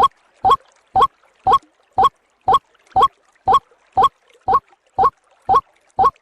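Recorded calls of the white-breasted waterhen (ruak-ruak), played as a bird lure: short pitched calls repeated very evenly, about two a second.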